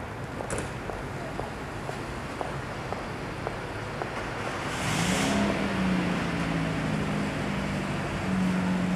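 Car engine running as a car drives slowly up the street toward the listener, coming in about five seconds in with a rising note that then holds steady, over a steady background hiss of street noise.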